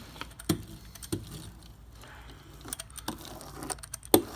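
Scattered light clicks and knocks, the loudest about four seconds in, from a laminating roller working resin into wet fiberglass chop strand mat.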